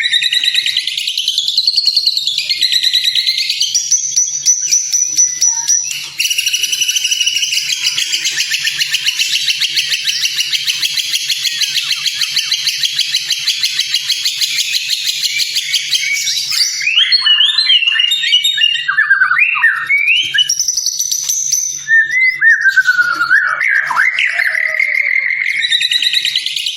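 White-rumped shama (murai batu) song packed with mimicked calls: rising and falling whistles, then a long dense buzzing rattle lasting about ten seconds, then quick, varied chattering phrases.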